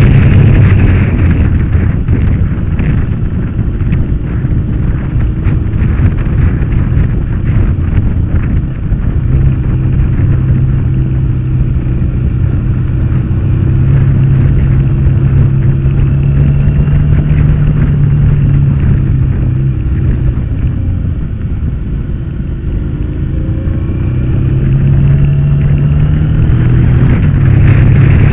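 Motorcycle engine running under way at road speed, heard from on the bike with heavy wind rumble on the microphone. The engine eases off about two-thirds of the way through, then its pitch climbs as it accelerates again near the end.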